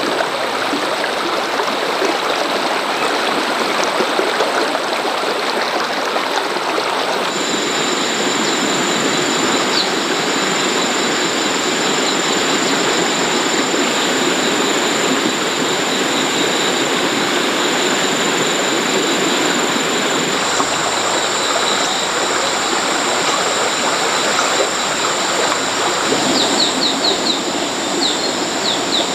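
Steady rushing water, like a stream, with a thin high-pitched whine held over it. A few short chirps come near the end.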